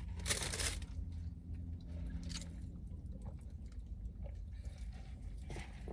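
A person chewing a mouthful of buffalo chicken tender sub, with one short louder burst of noise about half a second in.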